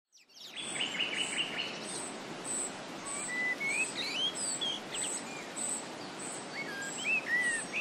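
Birds chirping and whistling in short rising and falling notes over a steady hiss, with a short high note repeating about twice a second.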